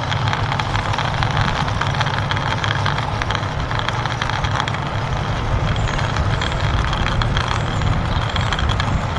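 Toy army tanker truck pushed along by hand, its plastic wheels rolling and scraping over the ground in a steady, crackly rumble.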